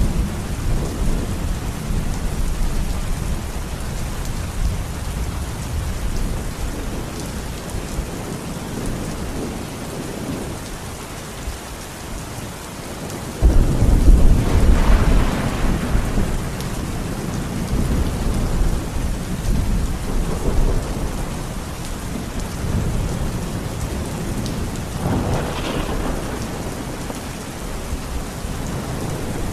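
Rain falling steadily in a thunderstorm. A sudden loud clap of thunder about halfway through rumbles on for a few seconds, and another rumble follows near the end.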